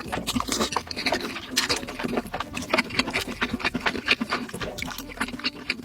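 Close-miked eating sounds: fast, irregular wet clicks and crunches of chewing food.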